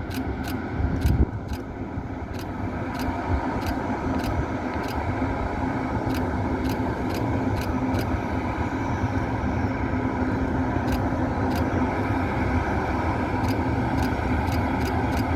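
Ming Ri sightseeing train running: a steady low rumble with a steady hum, and sharp clicks now and then. It grows gradually louder.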